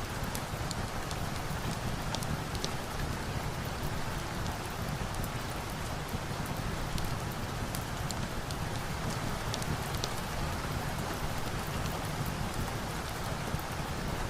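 Steady rain, an even rushing hiss, with scattered small sharp crackles from a log fire in a fireplace.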